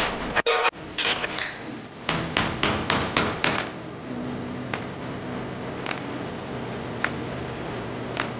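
Sharp tapping blows on small wooden parts, a run of quick taps followed by a few single light clicks, as of knocking miniature joinery pieces together.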